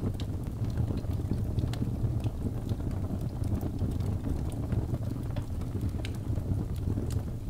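Birch log fire burning in a fireplace: a steady low rumble of flame with irregular sharp crackles and pops from the burning wood.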